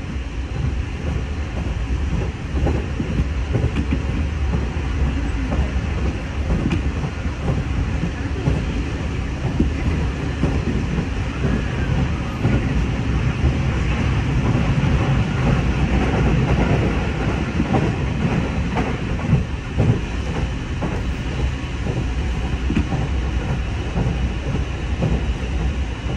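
JR Musashino Line electric train running at speed, heard from inside the passenger car: a steady low rumble of wheels on rails, with faint repeated clicks over the track.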